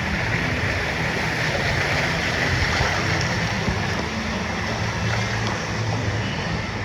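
Steady rush of churning water in a wave-driven whitewater river ride, a continuous even wash with a low hum underneath.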